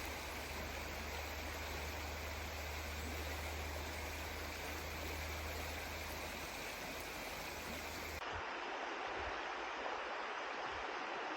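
River water flowing: a steady rush. About eight seconds in the sound changes abruptly, losing its low rumble and turning brighter and hissier.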